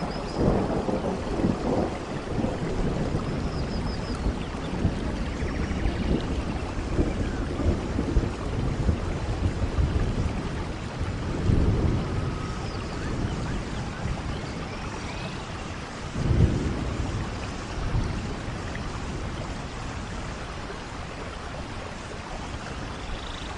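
Steady rain falling, with low rumbles swelling up about half a second in, around twelve seconds and again around sixteen and a half seconds in, and a few faint high chirps.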